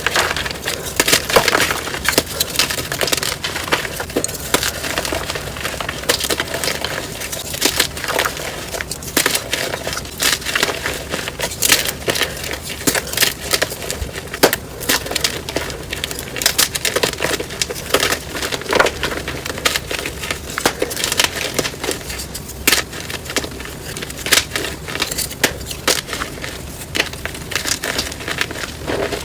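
Blocks of dyed gym chalk being crushed and crumbled by hand, a dense, continuous crunching and crackling sped up to double speed.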